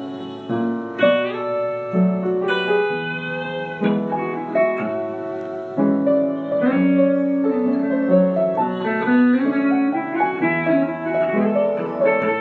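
Instrumental break in a soft pop song: a plucked guitar melody of many short notes over lower sustained notes, with no vocals.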